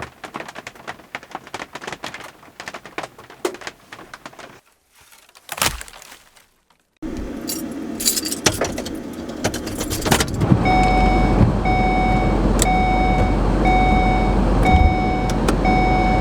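Jingling clicks like keys. After a short quiet gap a steady low rumble sets in, and over it a vehicle's electronic warning chime beeps about once a second.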